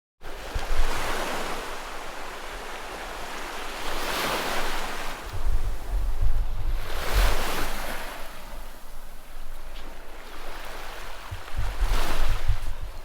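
Sea waves washing ashore, swelling and fading every few seconds, with wind gusting across the microphone as a low rumble around the middle and again near the end.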